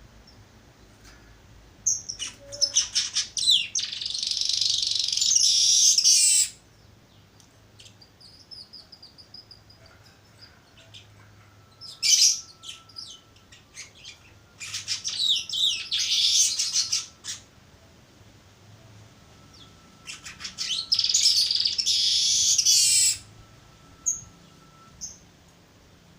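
A young weaver bird (manyar) practising its song. There are three long bouts of rapid ticking notes, each running into a drawn-out wheezy buzz, with a few faint chips in between.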